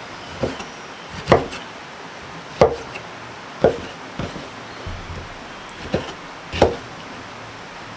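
A knife chopping on a wooden cutting board: about seven separate knocks, roughly one a second and unevenly spaced.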